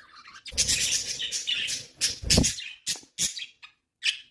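Pet budgies chirping in quick short bursts, with rustling and one dull thump about two seconds in.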